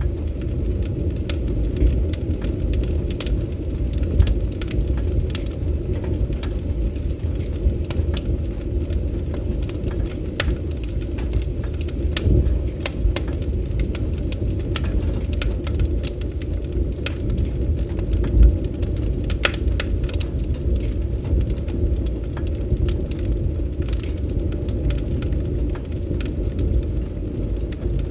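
Wood fire crackling, with irregular sharp pops over a steady low rumble of burning.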